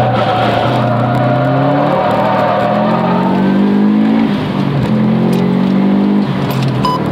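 Car engine heard from inside the cabin under hard acceleration. The revs climb and then drop with each upshift, three times over.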